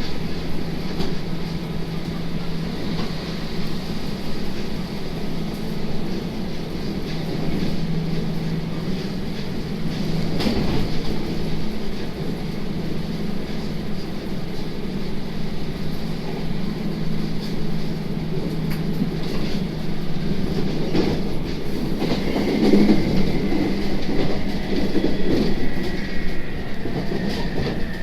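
Inside a JR Kyushu 811 series electric multiple unit running at speed: a steady motor hum and rail rumble, with occasional clicks of the wheels over rail joints. About two-thirds of the way through, a thin high whine comes in and slowly falls in pitch.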